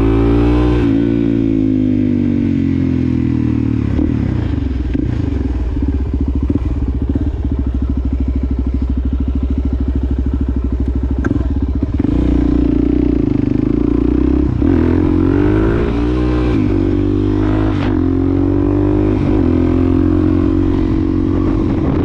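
2020 Suzuki DRZ400SM's single-cylinder engine running through a Yoshimura exhaust while riding, revs rising and falling with throttle and gear changes. A stretch of steady low revs sits in the middle.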